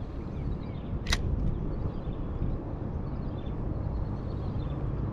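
Steady low rumble of wind on an action-camera microphone, with one sharp click about a second in.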